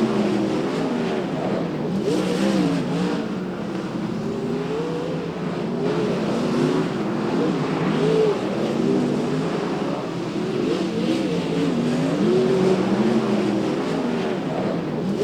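Several dirt track race cars running laps together, their engines rising and falling in pitch as they go on and off the throttle through the turns.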